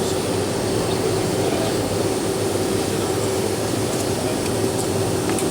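Steady cabin noise inside an Avro RJ85 jet airliner on the ground, an even hum with a steady mid-pitched tone from its engines and air systems.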